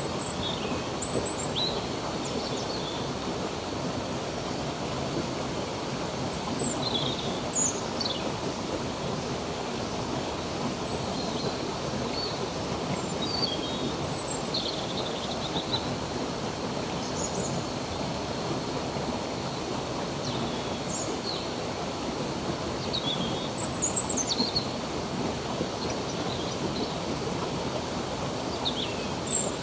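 Water running steadily in a stream, with birds chirping above it: short, high chirps and twitters every second or two. A faint, steady high tone runs under the chirps.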